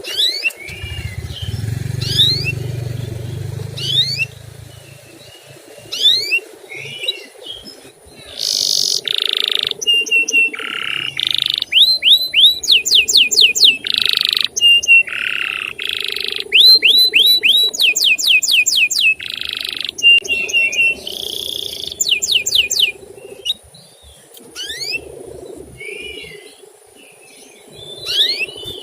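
Male canary singing: sparse rising whistled chirps, then from about eight seconds a loud, dense run of fast trills and held notes, easing back to sparse chirps near the end. A low rumble runs briefly underneath near the start.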